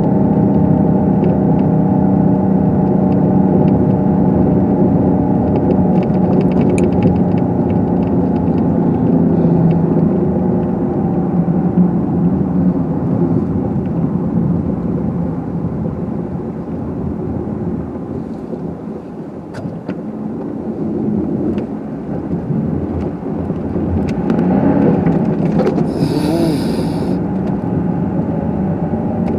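Car engine and road noise heard from inside the cabin while driving on snowy roads, a steady hum that eases for a few seconds past the middle and picks up again. A brief hiss sounds near the end.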